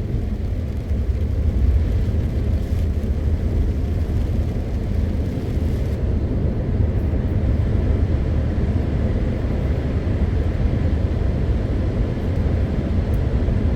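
MAN TGX 520 truck on the move: its diesel engine and rolling tyres make a steady, deep drone with road noise.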